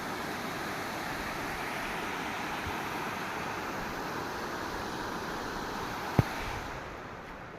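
Steady rush of water from a rain-fed flowing stream, which drops away near the end. A single sharp knock sounds about six seconds in.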